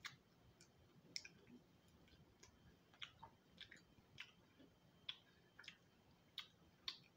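Faint mouth sounds of chewing fried guinea pig: irregular sharp wet clicks and smacks, roughly two a second.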